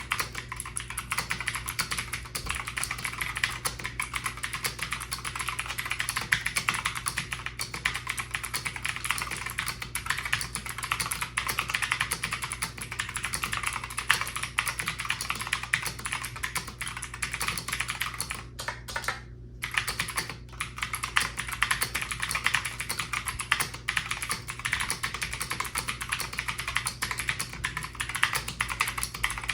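Fast, continuous typing on a Hawksbill Scorpion V1 wired mechanical keyboard with clicky switches: a rapid stream of sharp key clicks at about 90 words per minute, with a brief pause a little past halfway.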